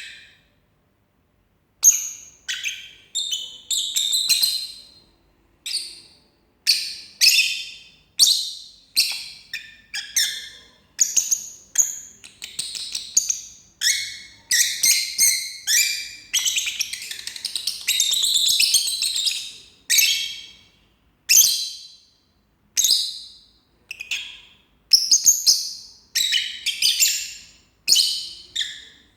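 Pet lovebird singing and chattering in short bursts of high chirps and squeaks, one after another, with a longer unbroken run of chatter about halfway through.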